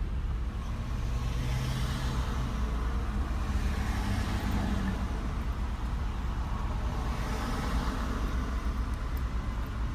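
Motor vehicle driving at low speed: steady low engine and road rumble, with a rushing noise that swells twice, about two seconds in and again about eight seconds in.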